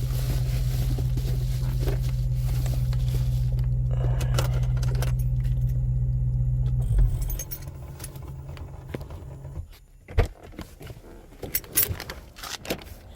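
A car engine idling steadily, shut off about seven seconds in. After that, keys jangle and a few sharp clicks and knocks follow.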